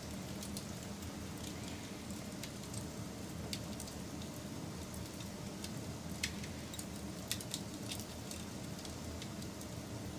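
Wood fire burning, a steady low rush with scattered sharp crackles and pops, the loudest a little past the middle.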